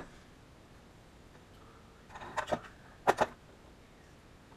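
Pneumatic rivet gun firing short bursts on aluminium rivets: one sharp hit at the start, a few short rattles about two seconds in, then two quick bursts about three seconds in.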